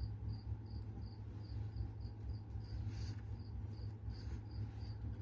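Cricket chirping steadily, short high chirps about three a second, over a steady low hum.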